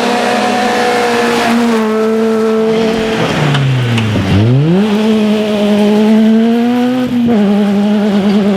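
Rally car engine held at high revs on a stage. About three and a half seconds in, the revs fall sharply and then climb straight back up. A shorter dip and recovery comes near the end.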